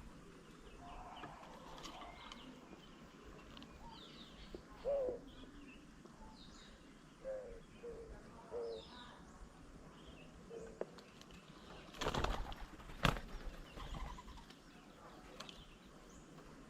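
Birds calling: short low calls a few seconds apart and scattered higher chirps. About twelve seconds in comes a burst of wing flapping, and a sharp knock follows a second later.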